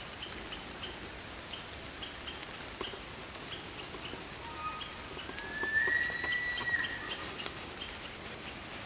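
Night forest ambience: short cricket chirps repeating a few times a second over a steady hiss, with scattered light ticks like dripping. About five seconds in, a whistled call rises and holds for about two seconds, the loudest sound.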